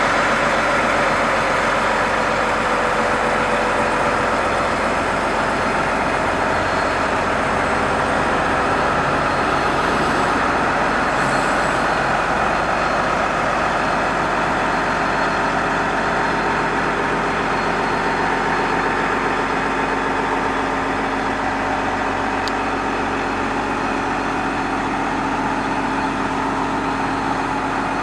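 John Deere 9460R tractor's 460-horsepower diesel engine idling steadily.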